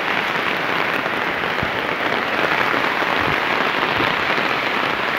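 Heavy rain pouring onto concrete pavement, a dense, steady hiss of falling water.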